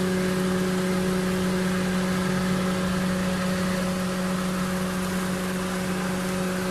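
2011 Toyota Vitz idling with its air conditioning on, heard at the front grille by the condenser: a steady, even mechanical hum with a low drone.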